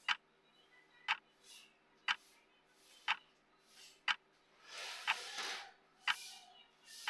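Clock-style ticking at one sharp tick per second, steady and even. A brief soft hiss rises and fades about five seconds in.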